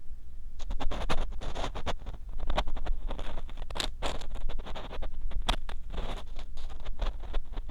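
Ear cleaning on a 3Dio binaural microphone: an ear pick scraping and scratching inside the microphone's silicone ear in quick, irregular strokes, starting about half a second in. The strokes are loud and close, with a low rumble underneath.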